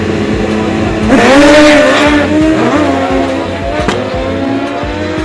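Drag-racing motorcycle engine running loudly, then revving hard about a second in, its pitch climbing before it settles back to a steady drone.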